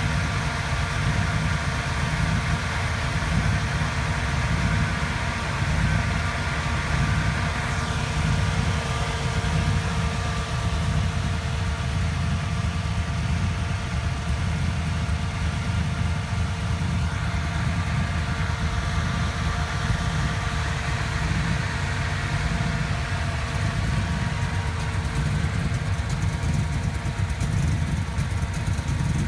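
1966 Shelby Cobra's V8 idling steadily with a low rumble, holding an even pitch with no revving.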